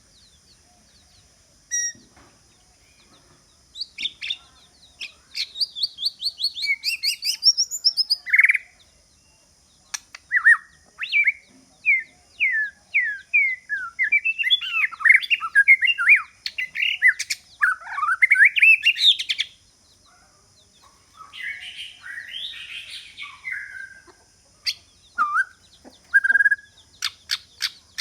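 White-rumped shama singing: phrases of quick whistled notes sliding up and down, in bursts separated by short pauses, with rougher chattering notes in the later part.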